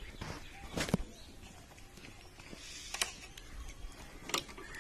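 Faint handling noise: a few separate short clicks and knocks, about a second in, about three seconds in and again just after four seconds, with no engine running.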